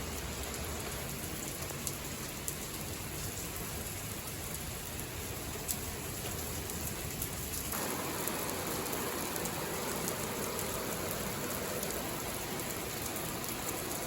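Steady rain falling, with a few louder single drop taps in the first half; a little over halfway through, the rain sound changes abruptly to a fuller hiss.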